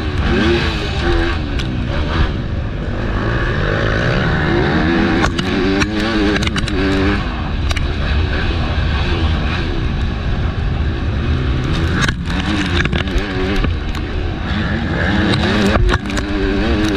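MX2 motocross bike engine revving hard and falling back over and over as the throttle opens and closes through the race track's jumps and corners, heard from a helmet chin mount with a steady rumble of wind and a scattering of sharp clicks and knocks.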